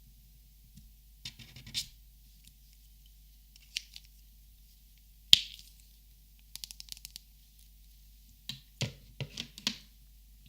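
Copic markers being handled: scattered plastic clicks and taps from the marker bodies and caps. A single sharp click comes about halfway, followed by a quick run of light taps, and a few more clicks come near the end.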